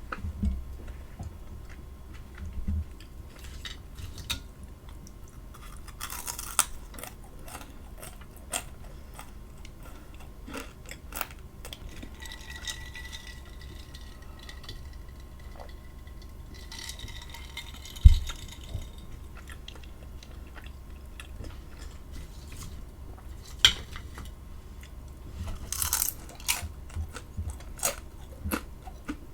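A person chewing and crunching food close to the microphone, with scattered clinks of cutlery and dishes. One low thump about two-thirds of the way through.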